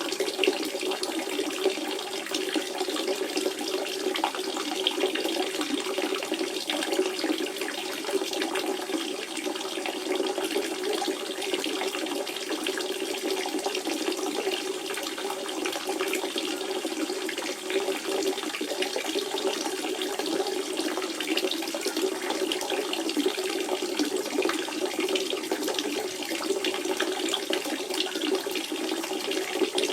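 Water from a natural spring running in a steady, unbroken flow.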